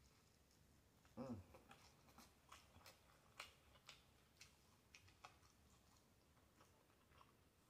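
Faint chewing and wet mouth clicks from eating fried chicken, with one short vocal sound from the eater about a second in.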